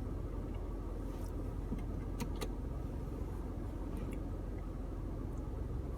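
A person chewing a crispy fried chicken sandwich: a few faint crunchy clicks about two seconds in, over a steady low rumble.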